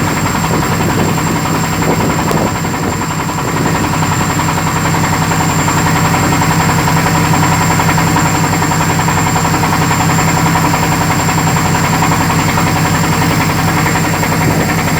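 Boat engine running steadily, a constant low drone with a thin, steady high whine above it.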